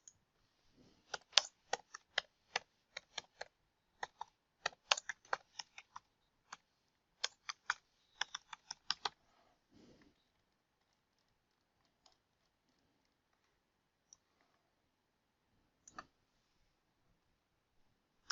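Computer keyboard typing: quick, irregular runs of keystrokes for about eight seconds, then a few single clicks spaced well apart.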